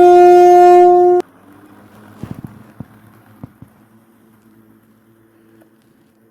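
Loud two-tone train horn held steady, cutting off abruptly about a second in, followed by a faint hum and a few light clicks.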